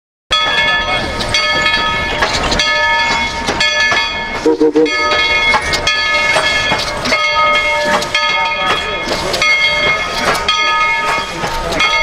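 Narrow-gauge train running, its wheels squealing on the rails in several high tones that come and go, over regular knocks about once a second.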